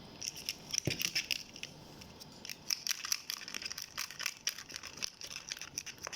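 Glue slime being stirred as activator is mixed in, making a dense run of irregular sticky clicks and crackles as the mixture thickens.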